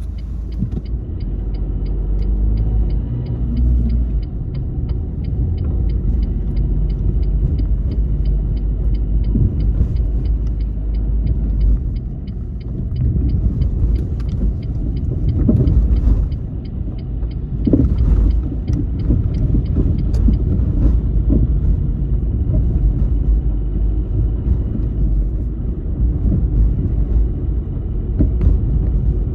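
Car driving on city streets: a steady low rumble of engine and tyres on the road. A regular light ticking, two or three a second, runs through most of it and stops near the end.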